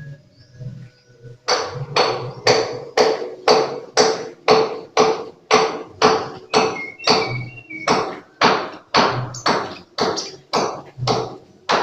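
A steady series of sharp tapping knocks, about two a second, starting about a second and a half in, each with a short ring, with a few faint high chirps in the middle.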